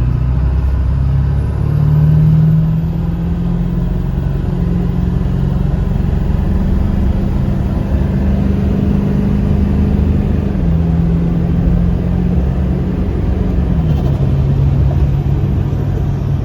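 A 2003 Ford 7.3 Powerstroke V8 turbo-diesel, running on new 180cc performance injectors, pulling hard under acceleration. Its engine note climbs and then steps down a few times as the gears change.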